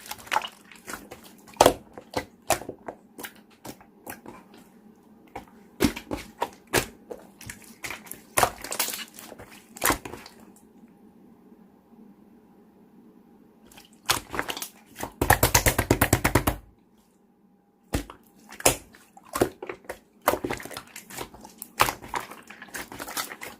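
Hand-played slime being squeezed and pressed, making scattered sticky clicks and pops. There is a short lull before a dense run of rapid clicks about fifteen seconds in.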